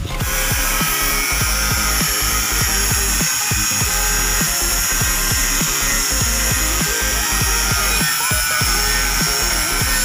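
Power grinder running steadily against a ship's propeller with a high, even whine, over background music with a steady beat.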